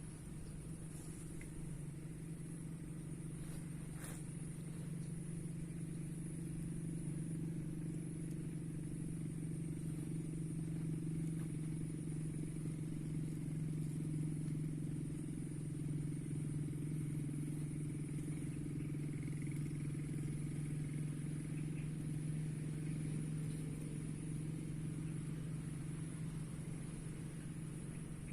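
A steady low engine-like hum running evenly throughout, with a constant thin high-pitched whine above it.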